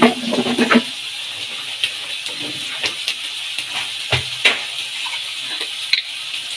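Tomato-onion masala frying in ghee on a hot tawa, a steady sizzle with scattered crackles and a couple of sharper clicks about four seconds in.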